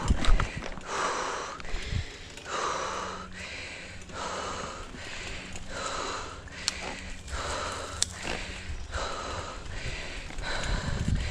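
A mountain biker's heavy, rhythmic breathing, a breath roughly every second, over low trail and riding rumble with a few sharp clicks.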